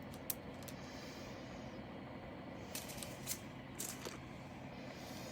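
Quiet, steady room hum with a few soft, short clicks, three of them close together in the middle.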